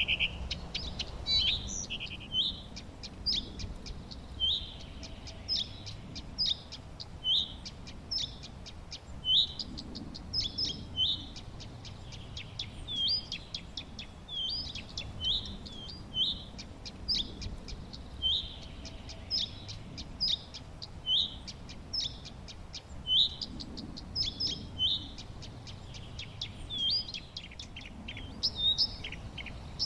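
Songbirds chirping: short, high chirps repeated again and again, mixed with quick clicking notes, over a low steady background rumble.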